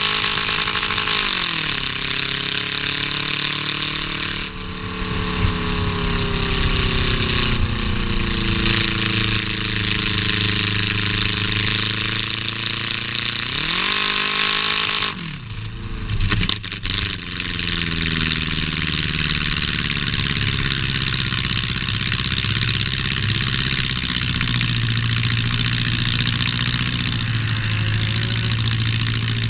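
Stripped-out race car's engine heard from inside the gutted cabin, its revs falling as the driver lifts for the turns and climbing again down the straights, over a steady rush of wind and road noise. A few brief knocks come about two-thirds of the way through.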